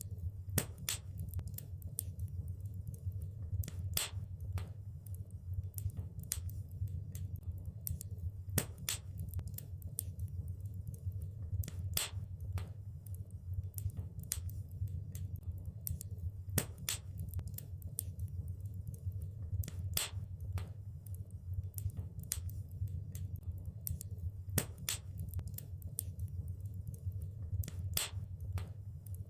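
Fire crackling in a fireplace: a steady low rumble of the flames under irregular sharp pops and snaps, several a second, some louder than others.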